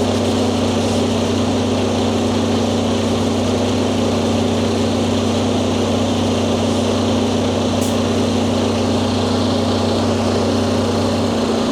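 Steady mechanical hum of a fuel pump filling a truck's diesel tank; the lowest part of the hum cuts off near the end as the tank fills.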